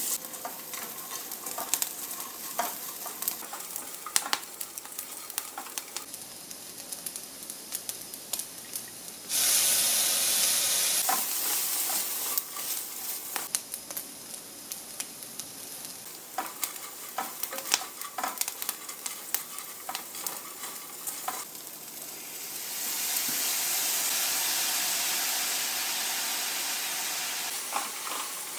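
Stir-frying in a pan: the spatula taps and scrapes many times against the pan while the food sizzles in the oil. The sizzle jumps suddenly louder for about two seconds about nine seconds in, then swells up again for several seconds near the end.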